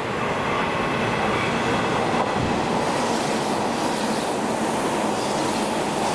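A Hanshin Railway through limited express train passing through the station at speed without stopping: a loud, steady rush of wheels on rail and running gear, growing a little louder about a second in.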